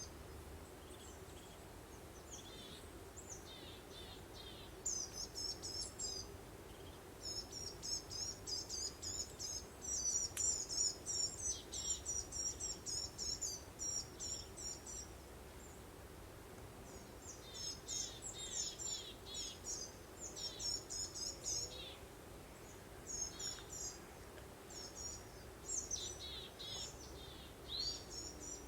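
Songbirds chirping in quick runs of high, rapid notes, coming in several bursts with short gaps, over a steady low background hum of noise.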